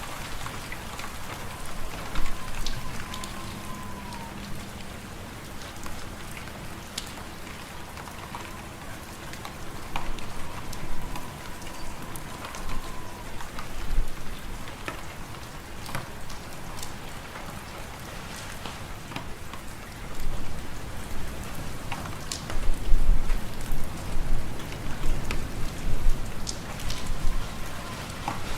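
Wood fire in a fireplace crackling, with scattered sharp pops over a steady hiss, under gusting wind whose low rumble swells in the last third. A faint whistle of wind rises and falls a few times.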